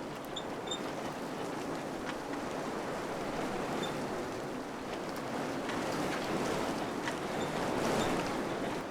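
Wind blowing in slow gusts, swelling to its strongest about eight seconds in, with faint scattered ticks.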